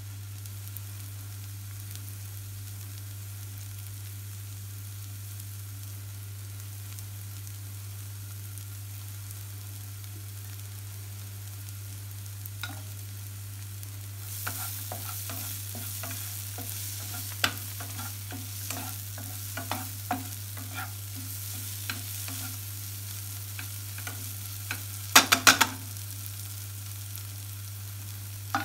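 Chopped onion and tomato masala sizzling in a black frying pan, with a steady low hum throughout. About halfway through a spatula starts stirring and scraping it, the sizzle grows louder, and near the end comes a quick cluster of sharp knocks.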